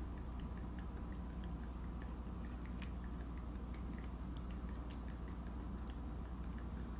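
An animal chewing, with small irregular crunching clicks over a steady low hum.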